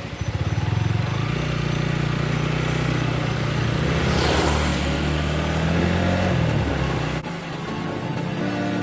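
Motorcycle engine running steadily, with an abrupt change in the sound about seven seconds in.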